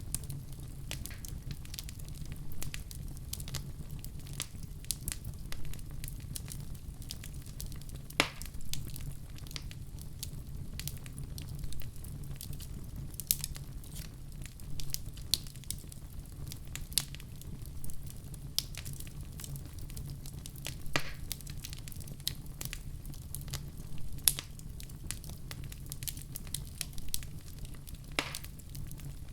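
Wood fire in a fireplace crackling steadily over a low rumble of flames, with many small snaps and a few louder pops spread through.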